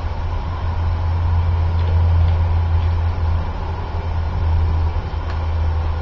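Wind buffeting the microphone: a steady, loud low rumble that swells and eases slightly.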